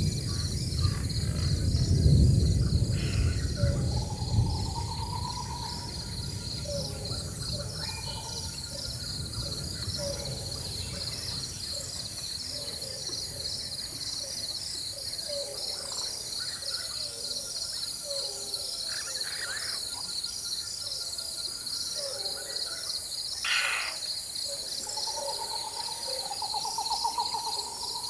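Rainforest ambience: a steady, rapidly pulsing insect chorus high in pitch, with scattered bird calls and short warbling trills. A low rumble of distant thunder swells in the first few seconds and is the loudest sound.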